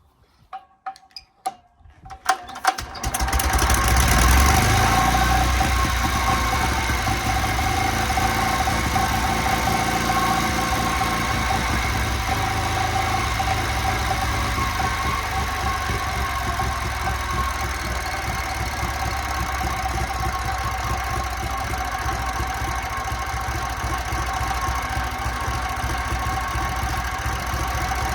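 1956 JAP model 55 single-cylinder stationary engine, running on petrol, starting up: a few sharp pops in the first couple of seconds, then it catches about three seconds in and settles into a steady run driving its 5 kW generator.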